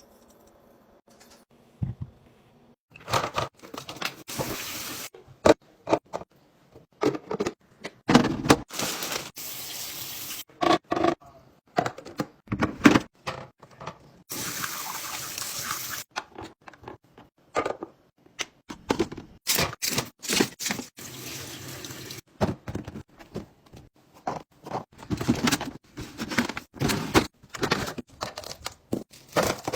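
Water running or pouring in short spells of one to two seconds, among many knocks and clicks of kitchen containers being handled.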